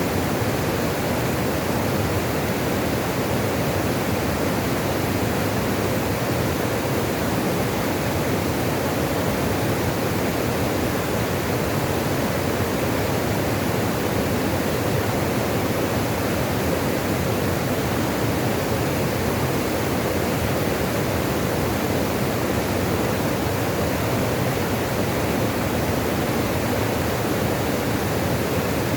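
Water rushing steadily, a continuous even wash of sound without breaks or changes.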